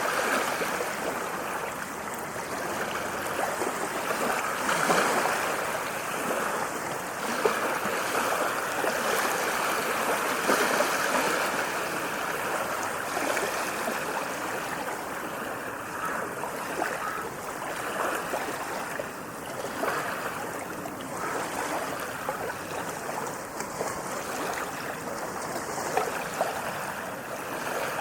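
Ocean waves washing and splashing continuously, swelling a little every few seconds, with small crackling splashes throughout.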